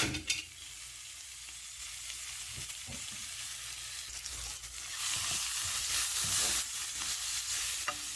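Sliced onions sizzling in hot oil in a frying pan: a steady hiss that grows louder about five seconds in. A sharp knock comes at the very start, with a few faint knocks later.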